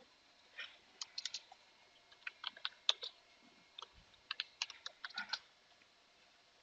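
Typing on a computer keyboard: irregular runs of key clicks in short bursts, stopping about a second before the end.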